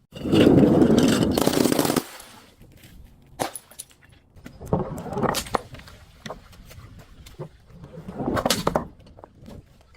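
Glass and crunchy objects being crushed: a loud, dense crackling burst for about two seconds, then scattered sharp cracks and clinks.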